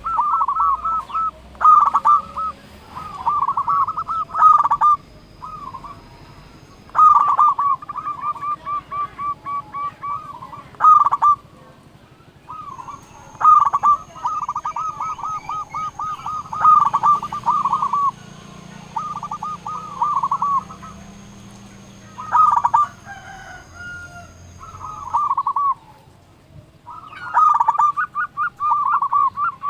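Zebra dove (perkutut) singing: repeated phrases of quick, rolling coo notes, each phrase a second or two long, with short pauses between them.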